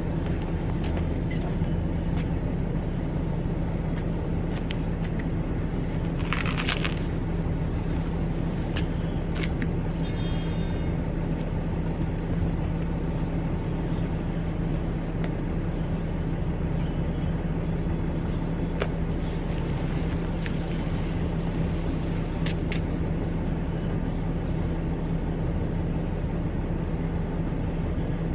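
A steady low mechanical hum, with scattered light clicks and a short clatter about six and a half seconds in.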